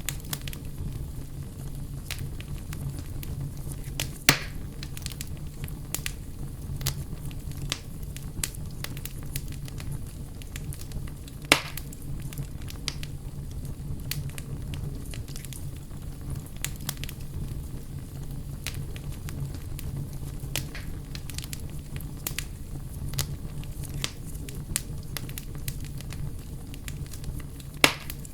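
Campfire burning: dense, irregular crackling with three louder, sharp pops, over a low steady rumble.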